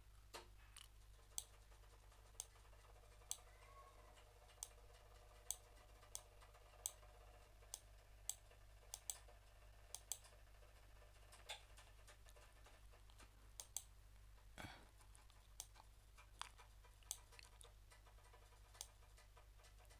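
Faint, irregular clicks of a computer mouse, roughly one a second, over a steady low electrical hum.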